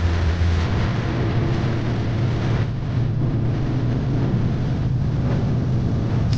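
Diesel freight locomotive running with a steady low engine hum, which shifts in pitch about half a second in, under a loud haze of wind buffeting the microphone.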